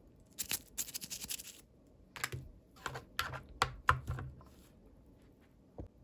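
Hands unboxing small plastic toys: a short rustle of packaging, then a quick run of light clicks and taps, and one last click near the end.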